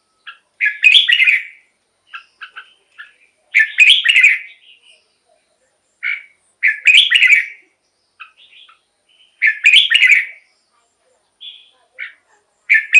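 Red-whiskered bulbul singing: a short, loud, warbled phrase about every three seconds, each led in by a few quick short notes.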